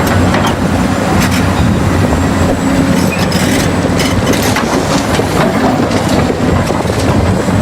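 Toy tractor's small motor and gears running steadily, with a continuous clattering rattle.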